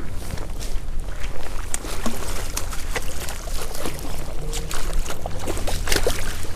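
Water splashing and sloshing in a shallow creek, a run of short irregular splashes over a steady low rumble.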